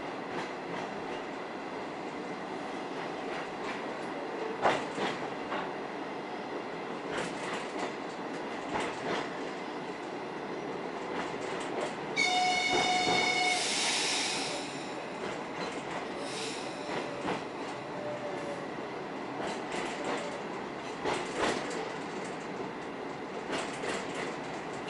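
Suburban electric train running, its wheels clacking over rail joints every few seconds. Just past halfway a train horn sounds once for about a second and a half, followed by a brief rush of hiss.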